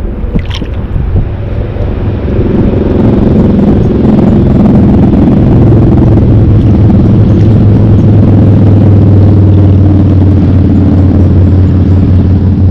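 An engine running steadily, getting louder about two seconds in and then holding at a low, even hum.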